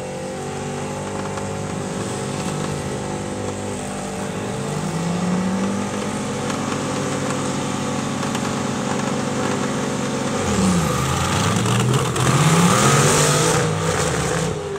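Racing tractor engines revving hard through a drag race run. Their pitch climbs, then drops sharply and climbs again about ten seconds in, like a gear change; the commentator reports right afterwards that one driver missed a gear. The loudest part comes near the end.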